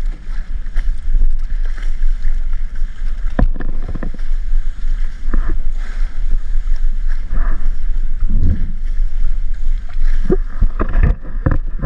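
Wind buffeting the microphone and water rushing past the hulls of a Tornado 20 catamaran under sail. A few sharp knocks and slaps stand out, about three and a half seconds in and again, more often, near the end.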